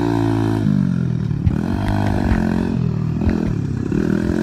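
Honda XR100R dirt bike's small four-stroke single-cylinder engine being ridden, its pitch dropping at first and then rising and falling several times as the throttle is worked. A few sharp clattering knocks come through.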